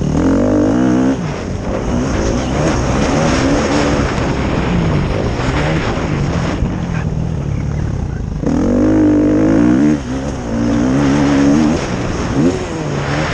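Several motocross motorcycles racing, their engines revving up and falling back again and again as riders work through the gears. One passes close at the very start and others pass close from about nine seconds in.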